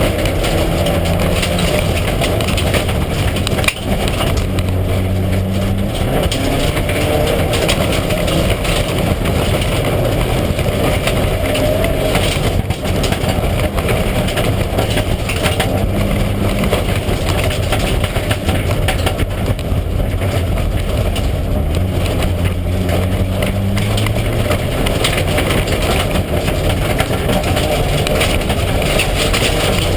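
Mitsubishi Lancer Evo IX rally car's turbocharged four-cylinder engine running hard, its pitch holding and then shifting up and down several times, over constant road and tyre noise. A single short knock comes about four seconds in.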